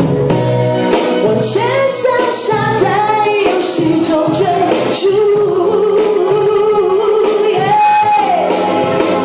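A woman singing a Mandarin pop song live over a backing track with a steady beat, holding one long note with vibrato about halfway through.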